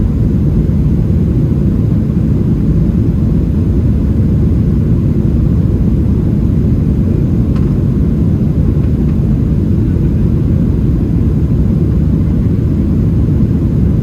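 Steady low rumble inside the cabin of a Boeing 737-700, its CFM56-7B turbofan engines and airflow running at an even level.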